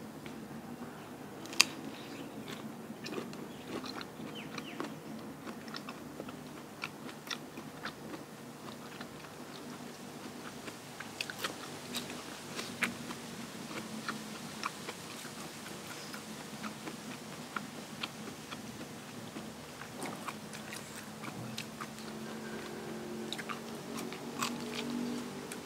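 A person chewing and crunching food close to the microphone, with sharp, crisp crunches at irregular intervals, one louder bite about a second and a half in.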